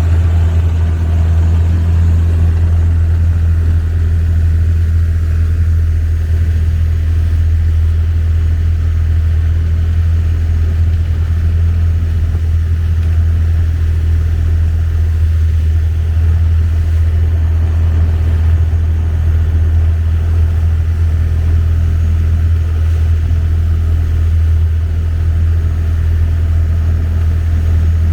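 Long-tail boat engine running steadily under way, a loud, even low drone.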